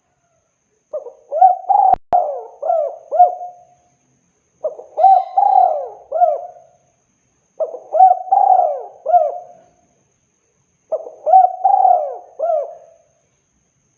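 Spotted dove (tekukur) cooing: four phrases of several rounded coos each, about a second apart.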